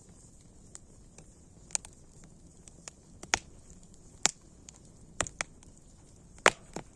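Wood fire crackling: a scatter of sharp, irregular pops and snaps, the loudest about two-thirds of the way in and near the end, over a faint steady hiss.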